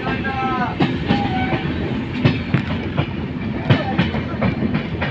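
Indian Railways passenger coach running at speed, heard through its open doorway: a steady rumble with the wheels clacking over rail joints at an irregular beat, roughly every half second. A brief wavering high tone sounds in the first second or so.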